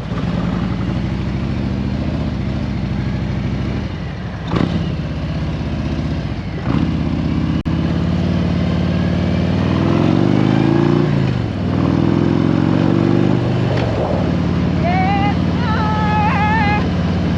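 Motorcycle engine idling, its revs rising twice in the middle before settling back to a steady idle.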